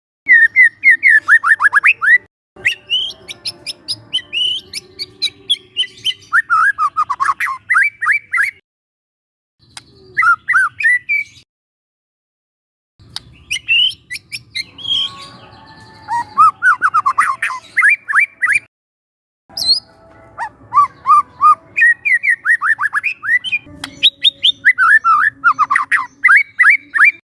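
Young wild white-rumped shama singing: loud phrases of quick repeated notes, many sliding down in pitch, broken by short pauses.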